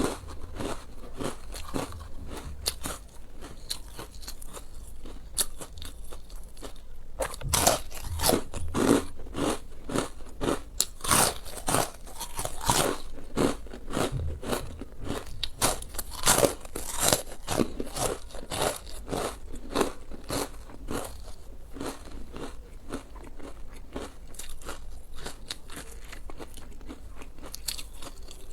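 Close-miked eating sounds: a person biting and chewing crunchy food, with a steady run of irregular crisp crunches and crackles. The crunches are loudest and most frequent through the middle.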